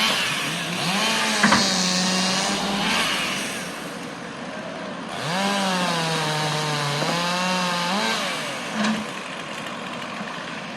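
Chainsaw cutting limbs from a felled tree, revving up to full speed twice and holding under load, with a steady machine engine running underneath.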